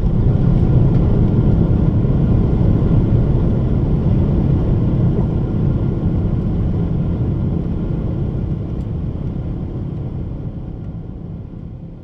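Boeing 777-300ER's GE90 engines at high thrust, heard from inside the cabin as a loud, steady low rumble with faint steady tones above it, typical of the takeoff and climb. It grows gradually quieter and fades out near the end.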